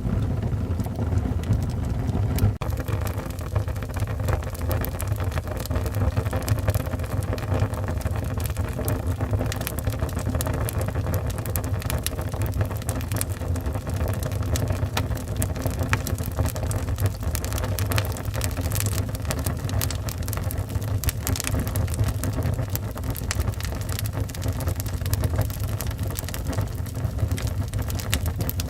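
Wood fire burning in a fireplace: a steady low rumble with many small, irregular crackles and pops, and a sharper pop about two and a half seconds in.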